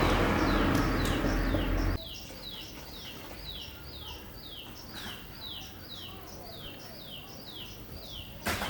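A loud, steady noise with a low hum cuts off sharply about two seconds in. Through it and after it, a bird keeps calling: a short falling chirp about twice a second. A sharp knock comes near the end.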